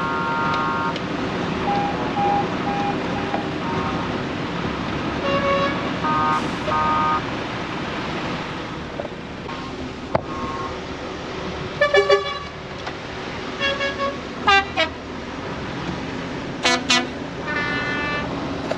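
Truck and vehicle horns tooting repeatedly in a convoy: many short blasts and a few longer ones, in several different pitches. They sound over the steady running of a lorry engine and road noise. The sharpest, loudest blasts come about two-thirds of the way through and near the end.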